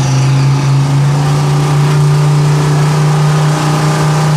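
Truck-pull pickup truck's engine running hard at steady high revs, loud and holding one pitch with only slight changes.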